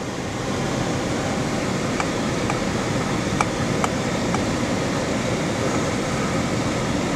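Steady rushing noise inside a car in a strong, gusting sandstorm wind: wind against the car together with the car's own running noise, with a few faint sharp ticks in the middle.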